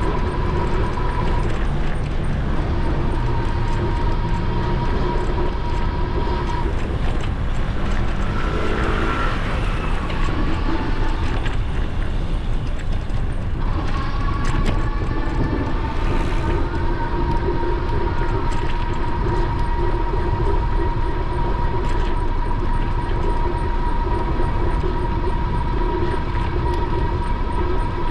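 Wind rushing over the helmet or bike-mounted action-camera microphone, with a steady electric whine from the e-bike's motor. The whine fades out about eight seconds in and comes back, rising in pitch, around fourteen seconds.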